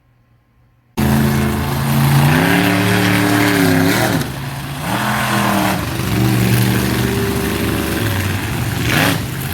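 Monster truck engine revving hard, starting abruptly about a second in. Its pitch climbs and falls several times as the throttle is worked, dropping off briefly around the middle.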